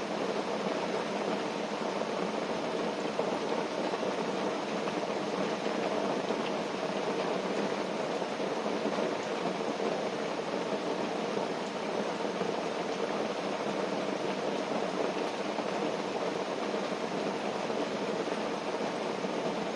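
Steady rain falling on a tent, heard from inside as an even, unbroken rush.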